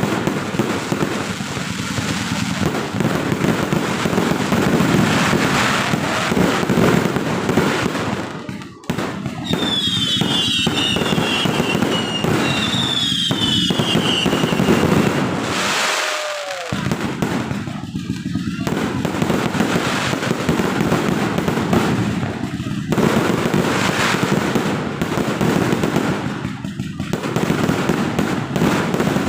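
Fireworks display going off continuously: a dense run of bangs and crackling, with high, slightly falling whistles about ten and thirteen seconds in.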